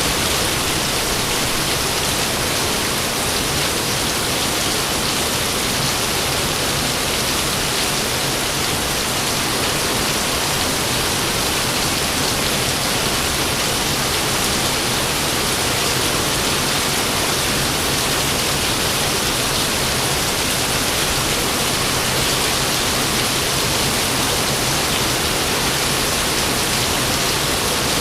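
Rain falling steadily, an even hiss with no thunderclaps.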